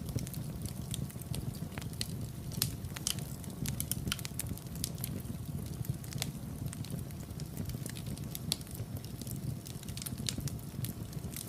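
Fire burning in a fireplace, crackling with many sharp, irregular pops and snaps over a low, steady rumble of the flames.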